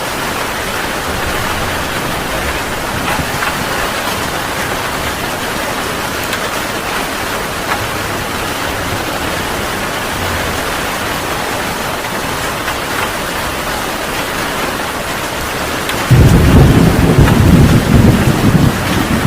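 Heavy rain falling steadily in a thunderstorm. About three-quarters of the way through, thunder breaks in suddenly with a loud, deep rumble that carries on over the rain.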